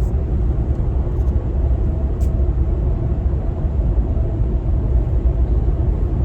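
Steady low rumble of a truck driving on the highway, engine and road noise heard from inside the cab.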